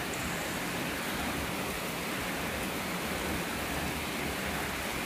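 Steady rain falling: an even, unbroken rushing noise.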